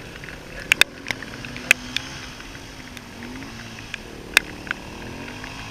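Distant dirt bike engine running, its pitch rising and falling with the throttle, with several sharp clicks over it.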